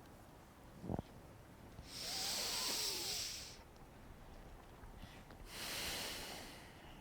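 A person breathing deeply and audibly into the microphone: two long, hissing breaths, the first about two seconds in and the second near six seconds, each lasting over a second, paced with a continuous cat-cow yoga flow.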